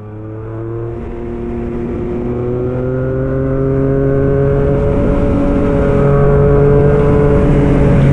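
Yamaha MT-09 SP's three-cylinder engine running through an aftermarket Black Widow exhaust, its note rising slowly as the bike gently accelerates. The sound fades in over the first few seconds.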